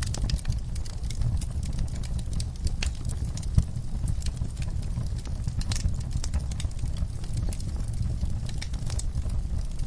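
Wood fire burning in a fireplace: many small, sharp, irregular crackles and pops over a low, steady rumble of the flames, with one louder pop about three and a half seconds in.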